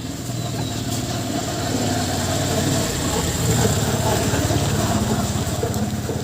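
A vehicle engine running close by, with a steady low pulsing beat; it grows louder to a peak a little past the middle, then eases off, like a vehicle going past.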